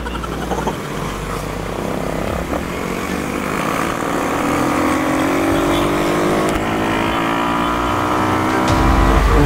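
A 150 cc-class motorcycle engine accelerating under way, its pitch rising steadily for several seconds, then dropping near the end.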